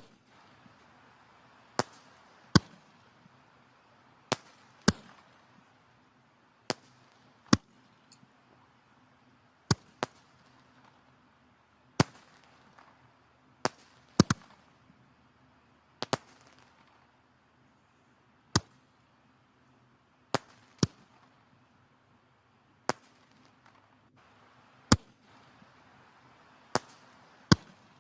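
Wood fire burning in a fireplace, crackling: sharp, irregular pops roughly once a second over a soft steady hiss of the flames.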